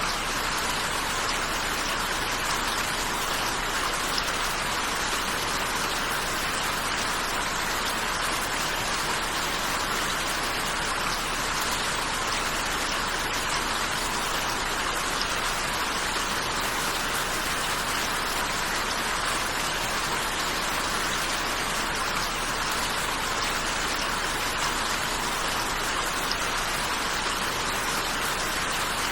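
Steady rain falling, an even unbroken hiss of many drops with no change in intensity.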